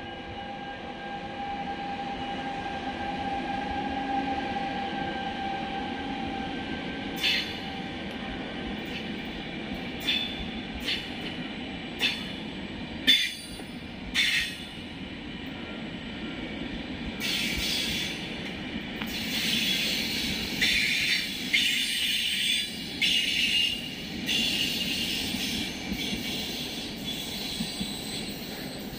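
Electric trains with Vivalto double-deck coaches and E464 locomotives moving through the station. For the first several seconds there is a steady electric whine over a low running rumble. Then come about six sharp wheel clacks over the track, and from about the middle on a high-pitched wheel squeal.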